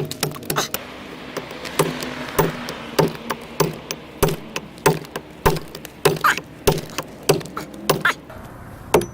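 A hand-held chopping blade striking into a pine log being hollowed into a dugout canoe, in a steady rhythm of about one and a half blows a second.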